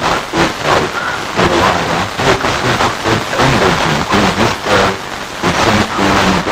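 FM radio receiver tuned to a weak, distant station: heavy crackling static and hiss, with faint fragments of the station's audio breaking through the noise.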